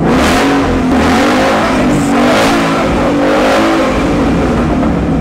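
Ford Mustang 5.0-litre V8 revved repeatedly with the cat-back exhaust removed, so it runs open straight out of the downpipes and catalytic converters. It is very loud, about 114.5 decibels on the meter, and sounds awful, its pitch rising and falling with each blip of the throttle.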